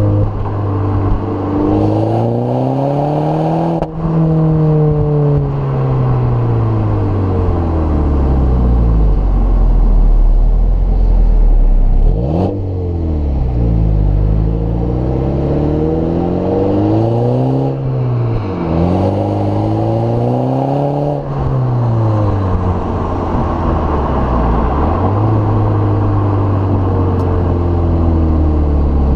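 2015 MINI Cooper S turbocharged four-cylinder engine and exhaust, the revs climbing and falling again and again, with several sudden drops in pitch, around a low steady idle-like hum in between.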